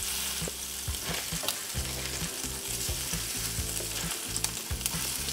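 Crab cakes frying in hot oil in a cast iron skillet: a steady sizzle, broken by scattered clicks and taps as a spatula turns the cakes over.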